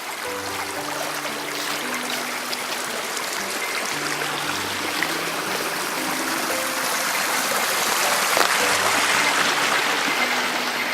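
Running water of a mountain stream, a steady rushing that grows louder toward the end and eases slightly at the close. Soft background music of held low notes plays underneath.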